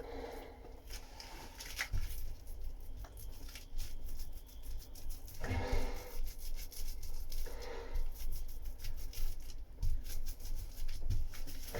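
Irregular scratchy rubbing and dabbing of a brush working polyester resin into fibreglass mat, with a few dull knocks.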